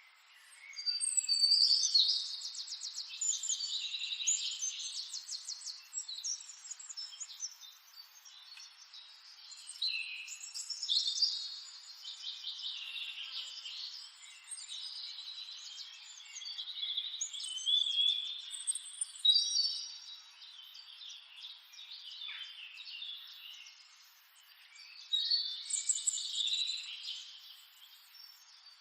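Several wild birds chirping and trilling together, in busy bouts of overlapping high calls with brief quieter lulls between them.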